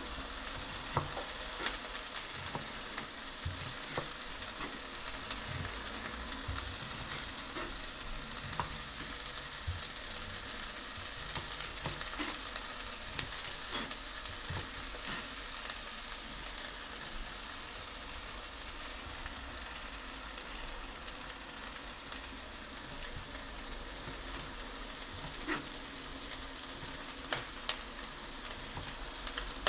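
Food sizzling steadily in a hot frying pan, with scattered clicks and knocks of a utensil stirring it.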